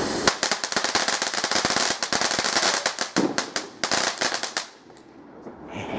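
Fireworks going off in a rapid string of sharp cracks and bangs for about four and a half seconds, then stopping suddenly.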